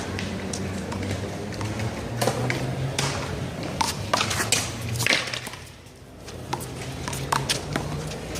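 One-wall handball rally: a rubber handball slapped by hands and smacking off the wall and the court, sharp hits coming at an irregular pace, with a short lull about six seconds in.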